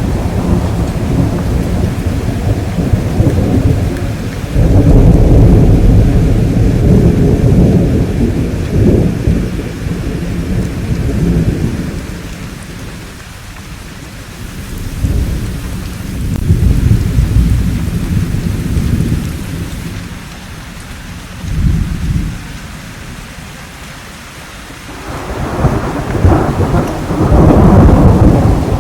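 Thunderstorm: rolling thunder rumbling in several long swells, the loudest beginning about five seconds in and another building near the end, over steady rain, with quieter stretches of rain between the rolls.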